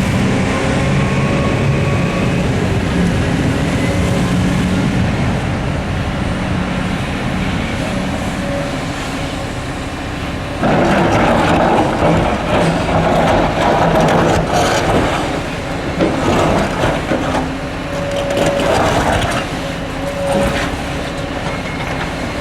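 Heavy diesel machinery running steadily with a hydraulic hum. About eleven seconds in, a loud clatter and rumble of rocks with many irregular knocks starts and lasts some eight seconds: a bucket of quarry rock being loaded into the steel bed of a CAT 775D quarry truck.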